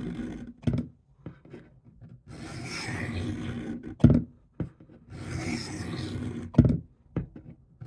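Knife blade of S30V steel drawn in slow strokes across a spit-wetted coarse diamond sharpening stone on a guided sharpener: a gritty rasping rub about two seconds long per stroke, each stroke ending in a short sharp knock.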